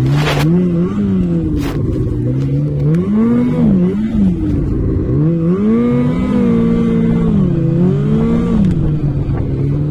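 Off-road vehicle's engine running under load, its revs rising and falling repeatedly as it is driven over rough ground, with a sharp click at the very start.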